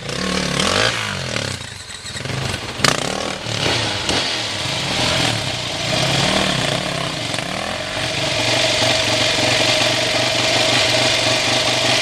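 Dirt bike engine with the sound of a two-stroke, revved up and down in waves, then settling to a steady idle about eight seconds in. A single sharp knock comes about three seconds in.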